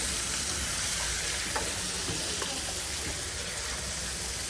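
Food sizzling and hissing as it fries in a food-truck kitchen, a steady hiss over a low, even hum, with a couple of faint clicks about a second and a half and two and a half seconds in.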